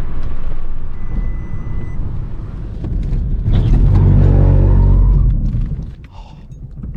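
Car engine and road noise heard from inside the cabin during hard driving. The engine note swells loud in the middle, then drops away sharply near the end as the car brakes to a stop.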